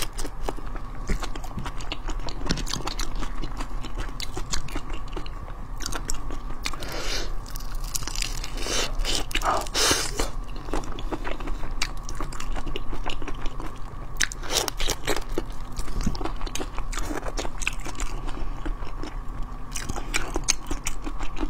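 Close-miked biting, crunching and chewing of whole marinated shrimp with their shells on, a steady run of crisp crunches.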